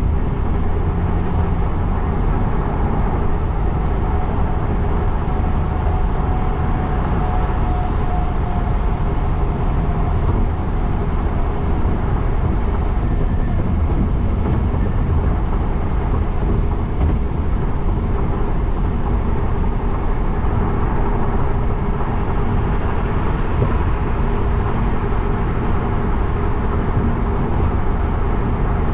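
Steady road noise of a car driving, a constant low rumble of tyres and engine heard from the dashcam inside the car.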